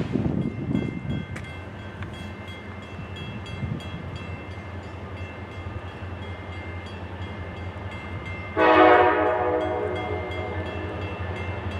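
Train running by with a steady low locomotive drone, then the locomotive's air horn sounds one long chord about eight and a half seconds in, starting loud and trailing off.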